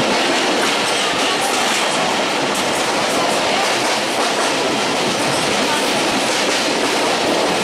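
Betna Express passenger train running along the track, with a steady, unbroken noise of wheels on rail.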